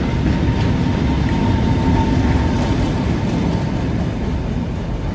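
Heritage diesel locomotive and train running, a heavy steady rumble with a thin whine over the first few seconds, easing slightly near the end.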